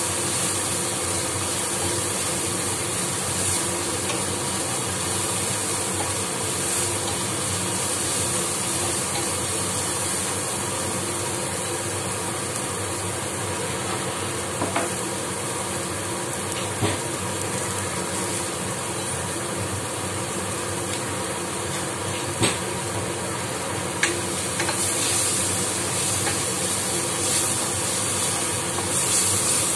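Chopped vegetables sizzling in oil in a nonstick frying pan while stirred with a wooden spatula, with a steady frying hiss. A few sharp taps of the spatula against the pan come about halfway through and more often near the end.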